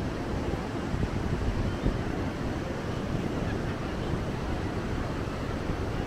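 Surf washing onto a sandy beach, a steady rushing noise, with wind buffeting the microphone in low, uneven rumbles.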